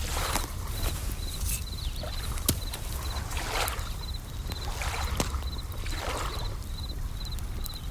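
Bell crickets (suzumushi) chirping in short, evenly repeated high trills, over swells of rushing noise from waves washing in every second or two. A campfire crackles with a few sharp pops, the loudest about two and a half seconds in.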